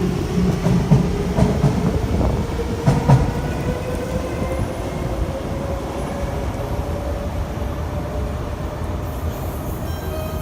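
Siemens C651 metro train accelerating away, its GTO-inverter traction motors whining in a tone that rises slowly in pitch over a steady rail rumble. A few knocks from the wheels come in the first three seconds.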